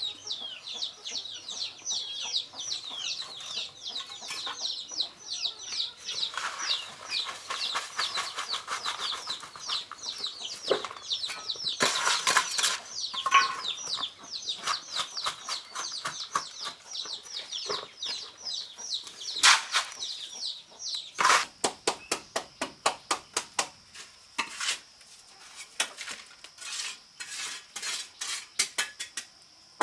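Chicks or young chickens peeping in many short, high, falling chirps, several a second. About two-thirds of the way in, a quick series of sharp taps or knocks takes over.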